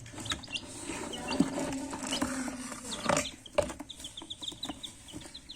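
Baby chicks peeping: many short, high peeps, with a quick run of them in the second half, among scattered light clicks.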